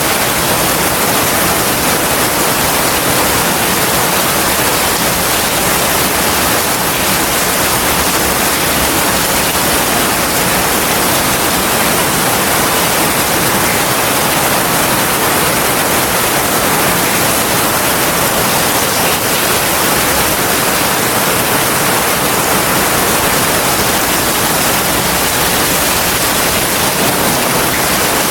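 Heavy rain pouring down steadily in a forest: a dense, even hiss with no thunder.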